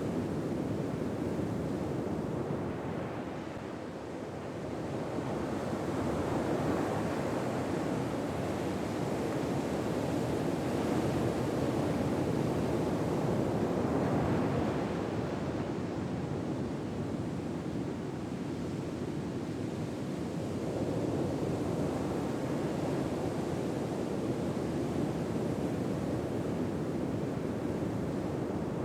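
Ocean waves breaking and washing on a shore, a continuous rush of surf that swells and eases slowly every several seconds.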